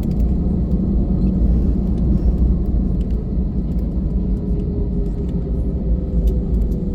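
Airbus A320-family jet airliner cabin noise during takeoff and climb: engines and airflow as a steady, loud low rumble, with light rattling clicks scattered through it.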